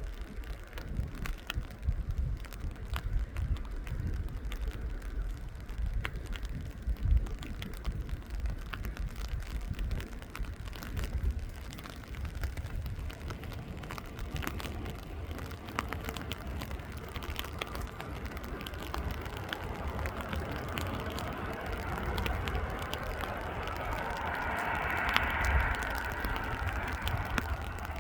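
Jet airliner engine noise building up from about halfway, loudest near the end, over a steady low rumble and crackle of wind on the microphone.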